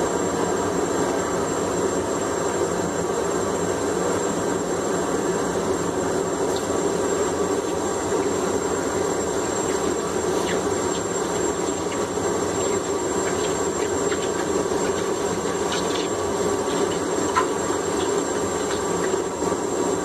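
Forge running with a steady rushing noise as the hammer head is brought up to heat for the quench, with a few faint ticks in the second half.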